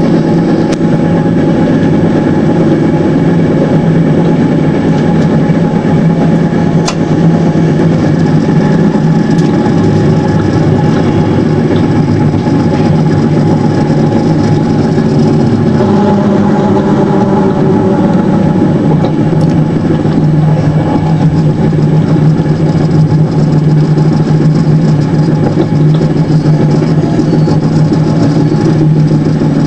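Passenger carriage of an InterCity Notte train running on the line, heard from on board: a steady rolling drone with an occasional sharp click.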